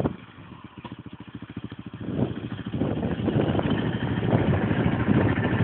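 Yamaha Raptor 660R's single-cylinder engine through an SIL aftermarket full exhaust. A sharp throttle blip at the start is followed by an even, lumpy idle for about two seconds. From about two seconds in it runs louder, with repeated surges of throttle.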